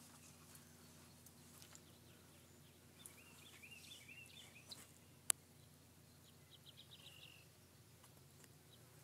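Near silence with small birds chirping faintly in two short runs, about three seconds in and again near seven seconds, and a single sharp click a little past five seconds.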